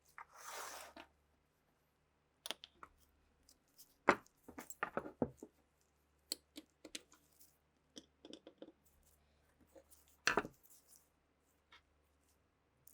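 Irregular clicks, taps and scrapes of hand work on small metal pistol parts, with a short hiss within the first second and two sharper knocks, about four seconds in and about ten seconds in.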